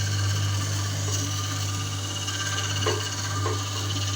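Washing-machine motor driving a honey extractor, running with a steady low hum, with two short knocks about half a second apart a little under three seconds in.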